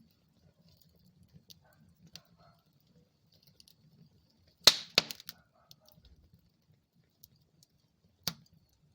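Wood fire in a fireplace crackling softly with scattered small ticks. Halfway through comes a loud sharp pop, followed quickly by a second, and another pop near the end.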